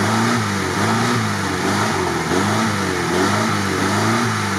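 Lada Niva engine revving up and down repeatedly, about once a second, as the stuck car strains in mud with its wheels spinning.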